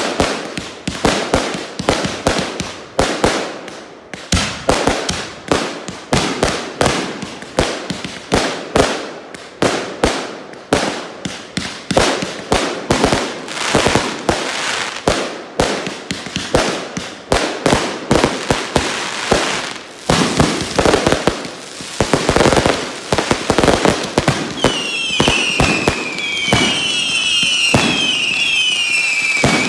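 Backyard consumer fireworks going off in quick succession, sharp bangs two or three a second with crackle and hiss between them. From about 25 s, a run of falling whistles from whistling fireworks rises over the continuous hiss.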